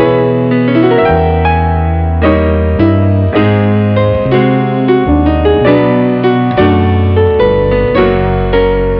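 Background piano music: calm keyboard notes, with sustained low bass notes under a moving melody.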